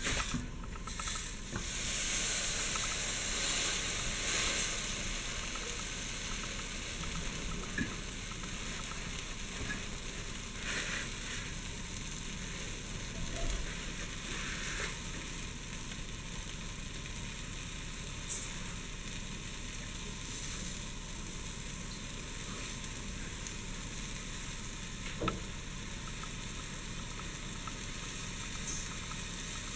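A grilled cheese sandwich sizzling in a nonstick skillet, with bread and cheese frying in a steady hiss. The hiss is strongest for the first few seconds and then settles; there is a single click about 25 seconds in.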